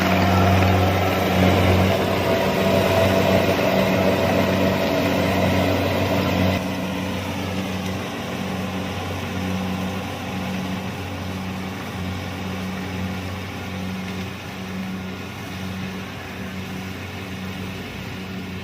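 Kubota DC-70 Plus combine harvester running steadily, its diesel engine hum and harvesting machinery together. About six seconds in the sound drops and turns duller, then slowly grows fainter.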